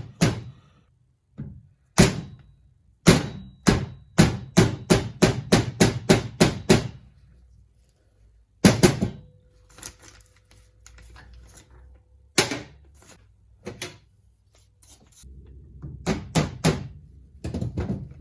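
Hammer blows on the winch's metal gear, tapping it into its seat: a quick run of sharp strikes about two a second, then a few single blows and a last short flurry.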